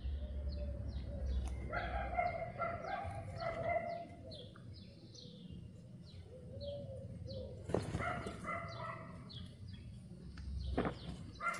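Birds chirping, many short, quickly falling high chirps repeating throughout, with longer pitched calls in between. Two sharp knocks come in the second half.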